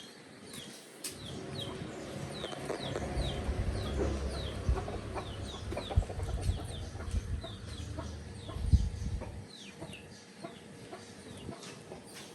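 Bird chirps, short high peeps that each fall in pitch, repeated two or three times a second. A low rumble runs through the middle, with a few clicks.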